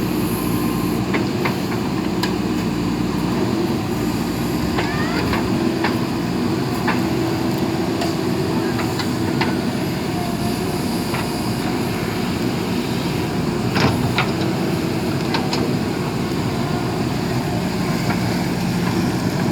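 JCB backhoe loader's diesel engine running steadily under work, with scattered sharp metallic clicks and knocks from the machine.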